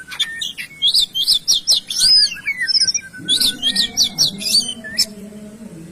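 A songbird singing: two bursts of rapid, sharp, high chirping notes. A low steady drone sits underneath from about halfway.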